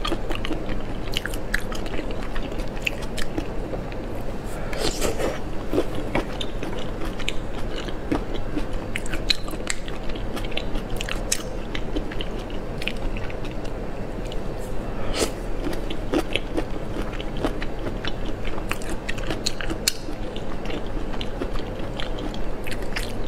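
Close-miked chewing and biting of food, with many short, crisp crunches and clicks scattered throughout.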